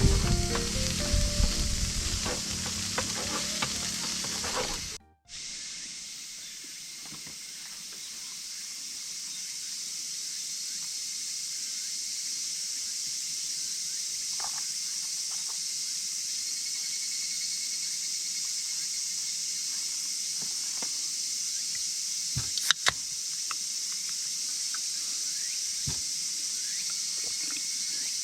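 Food sizzling as it fries in a pan while being stirred, with many quick scraping strokes for about five seconds. After a sudden cut, a quieter steady high sizzling hiss follows, with a few sharp clicks.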